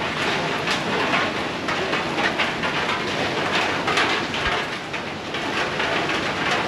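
Heavy rain falling: a loud, steady, dense hiss.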